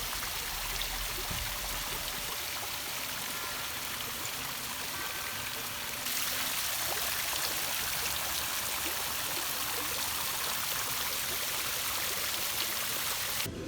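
Steady rush of running water, a little louder from about six seconds in.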